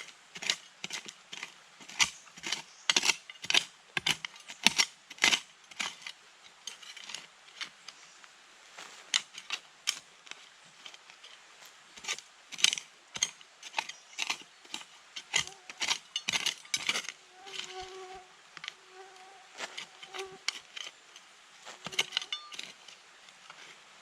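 Irregular sharp clicks and knocks of objects being handled, several a second at times. In the second half an insect buzzes briefly in short spells.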